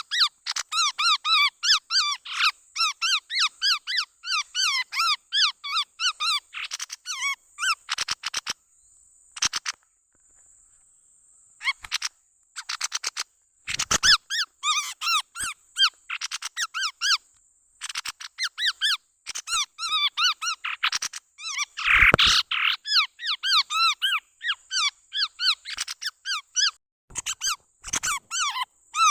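Chestnut-rumped babbler lure call: rapid runs of short, squeaky chirping calls, dense and repeated, with a pause of a few seconds about a third of the way through. A faint steady high tone runs beneath the calls.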